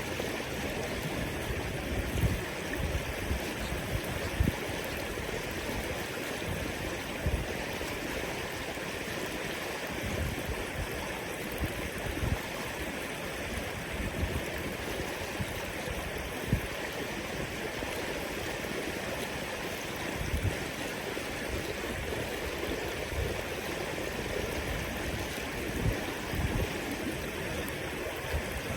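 River water flowing steadily, an even rushing sound with no break, with occasional short low thumps mixed in.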